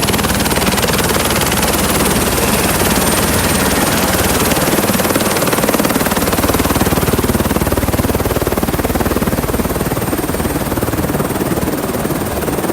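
Helicopter in flight: loud steady rotor and engine noise with a fast even chop and a thin high whine.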